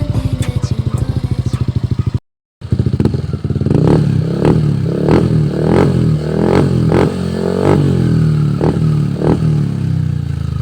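Yamaha Aerox V1 scooter's single-cylinder engine breathing through an RS8 dual open conical aftermarket exhaust. It idles with a steady pulsing note, then after a brief cut the throttle is blipped repeatedly for several seconds, about one rev every half second, before it settles back toward idle.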